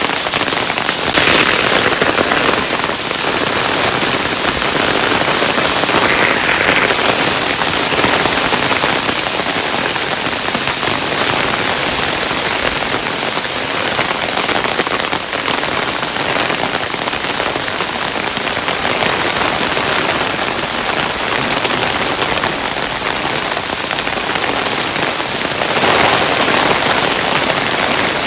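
Hailstones falling steadily, a dense patter of small hard impacts, swelling slightly louder a few times.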